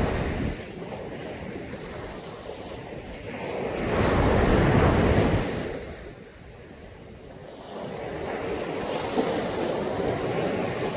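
Caribbean Sea surf washing onto a beach in slow swells. The loudest wave breaks about four seconds in and fades by six, and a smaller one builds again near the end.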